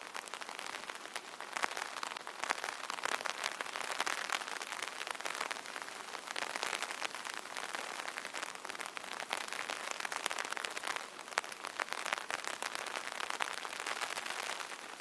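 Light rain pattering on an open umbrella's canopy: a dense, steady patter of many small drops.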